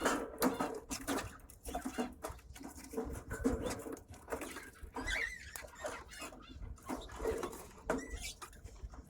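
Small pet parrots such as budgerigars and lovebirds chattering in short, quick chirps, mixed with many small clicks and taps.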